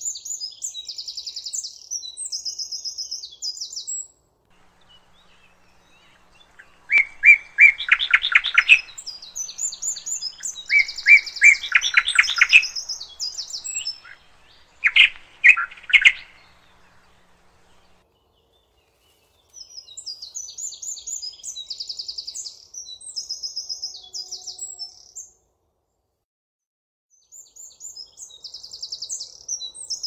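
Two songbirds singing. One has a high, fast, twittering song in phrases a few seconds long. In the middle a louder, lower-pitched bird sings quick runs of repeated notes in short bursts.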